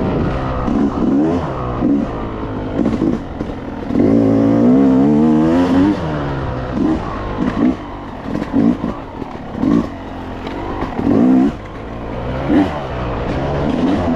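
Yamaha YZ250X two-stroke single-cylinder dirt bike engine being ridden hard, revving up and dropping back in many short throttle bursts. About four seconds in comes one longer pull of about two seconds.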